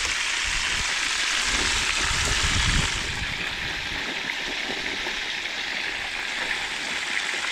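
Small chili peppers frying in hot oil to make chile toreado: a steady sizzle. Its highest hiss drops off about three seconds in, and there is low rumbling before that.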